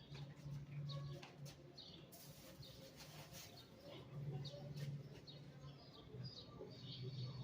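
Small birds chirping faintly and repeatedly, with a low hum coming and going underneath.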